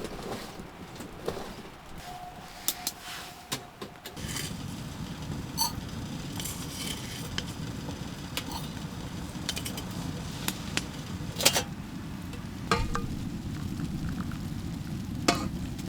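Wood fire in a small titanium wood stove: a steady low rush that sets in about four seconds in, with scattered crackles and clicks.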